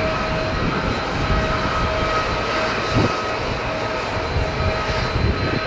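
Airliner engines running at idle, heard from inside the passenger cabin: a steady rushing noise with a constant whine on top.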